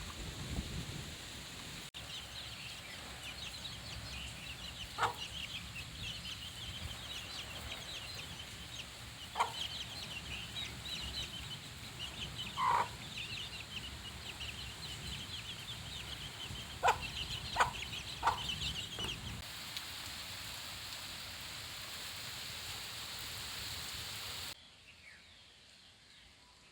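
A brood of young chicks peeping continuously, many high, short chirps overlapping, with a few louder single cheeps, over a steady hiss of rain. The peeping stops about three-quarters of the way through while the rain goes on, then the sound drops away suddenly near the end.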